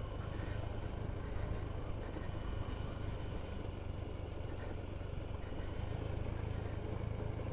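KTM 390 Duke's single-cylinder engine running steadily at low speed, a constant low hum with road and wind noise over it.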